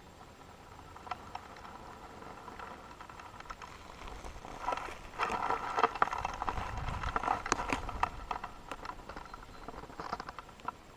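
Footsteps on a forest path: scattered crackles and taps, thickest through the middle, with a brief low rumble there too.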